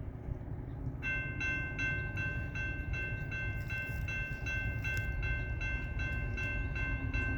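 Grade-crossing warning bell starts ringing about a second in, a steady run of strokes a little under three a second, over the low rumble of an approaching freight train.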